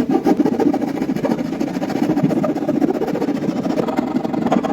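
A hand file rasping in quick continuous strokes along the edge of a pickup cavity cut through a guitar's lacquered wooden top.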